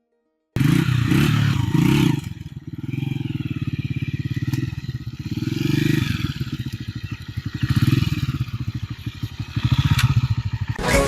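Road Prince 125cc motorcycle engine running and being revved up and down several times, with rapid, even firing pulses. The engine has a tick-tick noise that the mechanic puts down to the pushrod.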